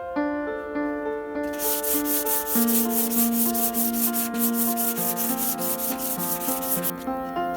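Quick, rhythmic back-and-forth strokes of hand sanding on a surface, starting about a second and a half in and stopping about half a second before the end, over piano music.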